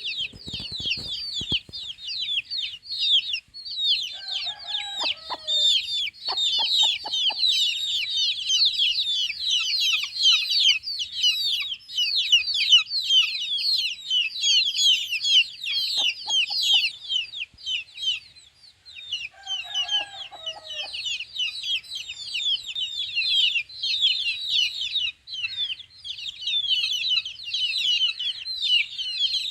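A group of chicks peeping continuously, many rapid high downward-sliding chirps overlapping. Twice a lower call cuts in, about five and twenty seconds in, and there are a few short clicks.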